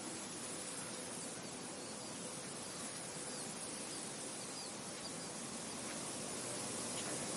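Steady rush of wind, with a few faint, short, high bird chirps scattered through it and a soft insect hum beneath.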